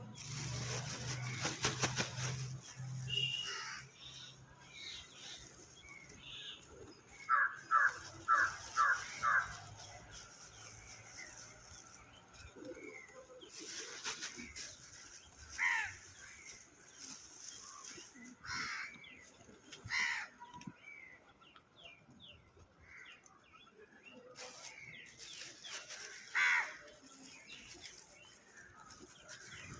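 Birds at a feeding spot: a burst of wing flapping at the start, then crow-like caws, with a run of five quick caws about seven seconds in and single calls scattered after.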